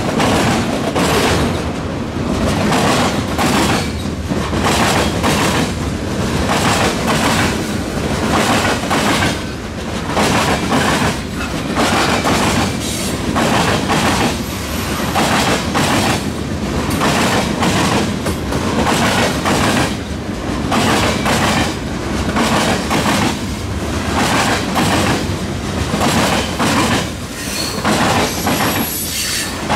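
A freight train's cars rolling past close by, the wheels clattering over the rail joints in a steady, even rhythm.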